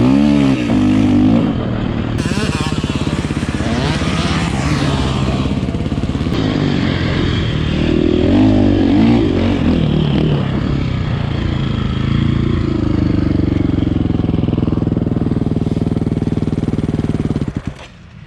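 Dirt bike engine running hard, its revs rising and falling, then cutting out abruptly near the end: the bike stalls because the clutch has jammed.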